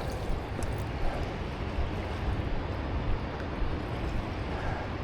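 Steady rushing of the Niagara River's fast water, an even wash of noise.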